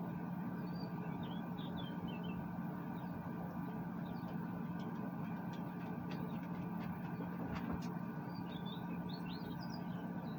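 Steady low mechanical hum with a constant drone, under the short chirps of small birds about a second in and again near the end, with a few faint clicks in between.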